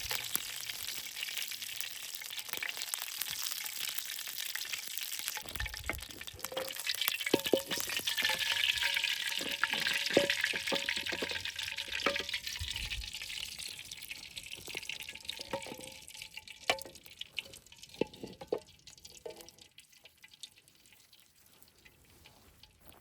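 Food sizzling in a hot pan, with scattered clicks and knocks of a utensil. The sizzle grows louder in the middle, then dies away over the last several seconds.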